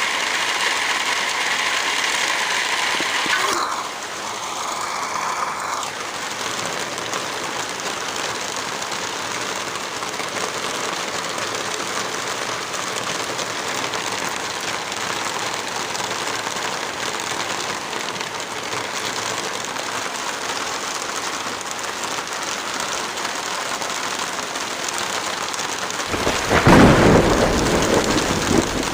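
Heavy rain falling steadily, with a loud low rumble of thunder near the end.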